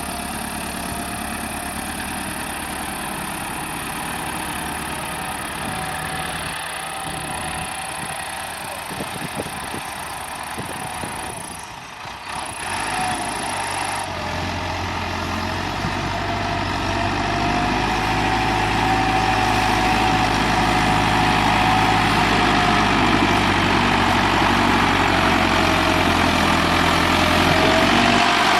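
Massey Ferguson 385 tractor's diesel engine running steadily. After a brief dip about twelve seconds in, a deeper rumble comes in and the engine grows gradually louder.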